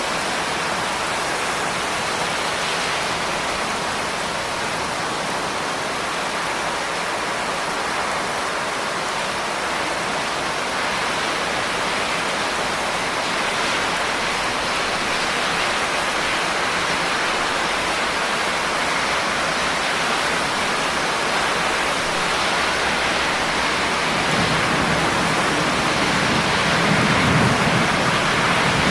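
Steady heavy rain, an even hiss of falling water, with a low rumble of thunder building near the end.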